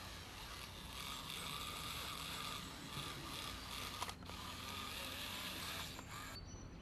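Small electric motor and gears of a wooden model truck running, a steady whirring with gear clatter as its spiral screw wheels turn, briefly cut off about four seconds in.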